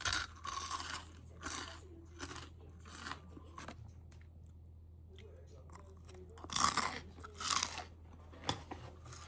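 Crunchy food being bitten and chewed close to the microphone: irregular crunches in two clusters, the loudest about seven seconds in, over a low steady hum.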